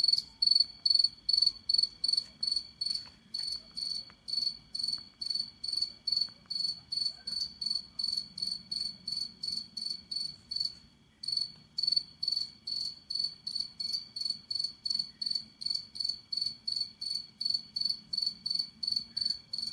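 Cricket chirping steadily at night, about two and a half chirps a second, with one brief pause about halfway through.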